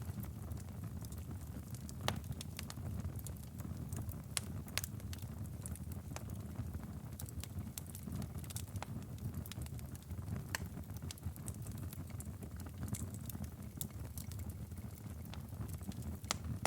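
Firewood burning in a fireplace, crackling with irregular sharp pops and snaps over a steady low rumble of the flames.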